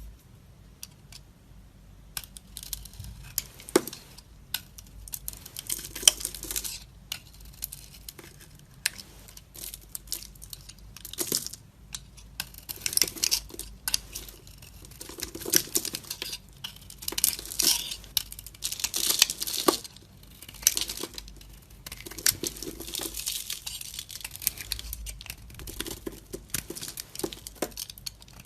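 Dry soap being cut, giving crisp crackling crunches in repeated strokes with sharp clicks between them, starting about two seconds in.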